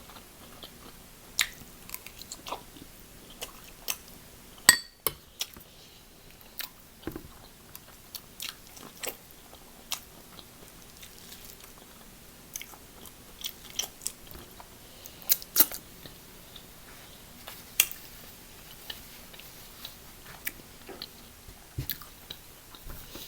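Close-up chewing and biting of seafood, with irregular sharp clicks and cracks scattered throughout, the loudest about five seconds in.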